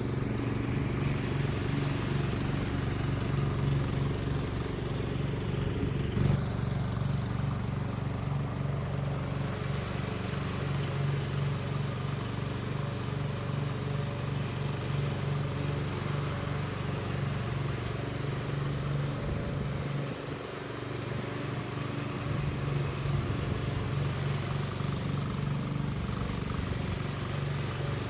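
Husqvarna Rider 13 riding lawn mower's engine running steadily during a test drive, dipping briefly about 20 seconds in before picking up again.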